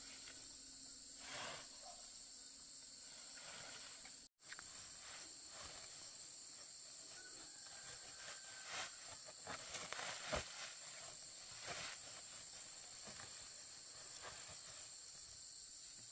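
A steady high hiss with scattered light knocks and rustles, most of them between about eight and twelve seconds in. The sound cuts out completely for a moment about four seconds in.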